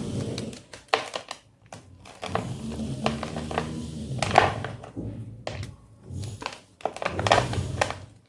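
White gym chalk crushed and crumbled by hand: several sharp crunches with gritty crumbling between them, broken by two brief pauses.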